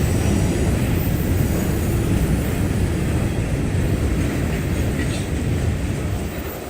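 Freight train cars rolling past: a steady rumble of steel wheels on rail, easing slightly near the end.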